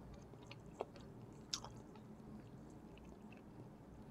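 Soft chewing of raw salmon sashimi, with two sharp faint clicks, one just under a second in and a louder one about a second and a half in.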